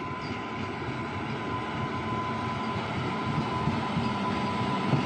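Electric locomotive hauling a container freight train, approaching and drawing close: a steady rumble of wheels on rails growing gradually louder, with a steady high whine over it.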